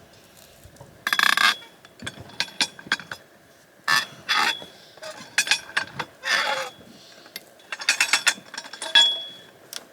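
A steel T-post puller being worked on a metal T-post to pull it from the ground: a string of irregular metal clanks and rattles, several leaving a short ringing note.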